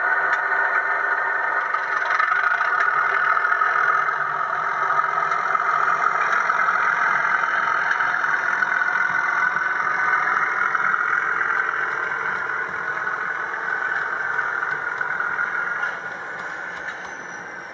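Bachmann model Class 37 diesel locomotive running on a model railway layout with a steady engine-like hum, growing quieter near the end.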